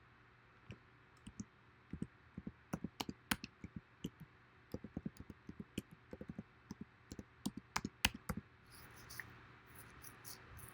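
Computer mouse clicks and keyboard keystrokes at an editing desk, irregular, several a second in clusters, with a soft hiss for the last couple of seconds.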